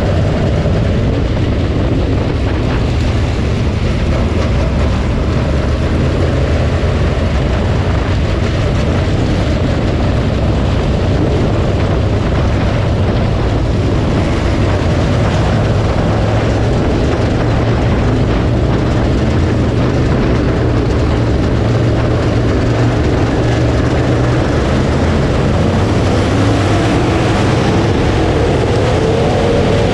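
Dirt late model race car's V8 engine running hard at speed, heard loud and steady, with its pitch climbing near the end as it accelerates.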